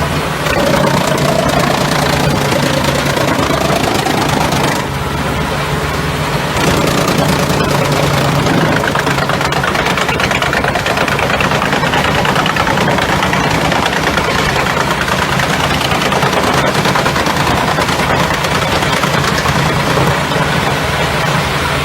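Deutz diesel engine of a Heizohack HM 8-400 wood chipper running steadily with the chipper working, a dense mechanical din over a low engine drone. A whine rises in pitch over the first few seconds.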